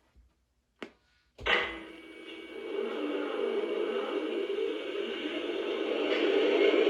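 Diesel startup sound played through the onboard speaker of a Lionel RJ Corman SD40T-2 model locomotive: a click a little under a second in, a sharp burst at about a second and a half, then the prime mover's steady running sound building slowly.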